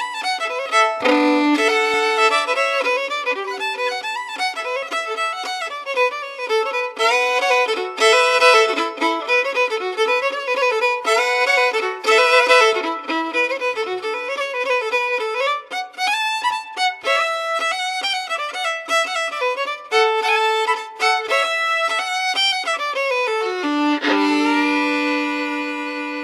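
Solo fiddle playing a lively tune as background music, ending on a long held chord near the end.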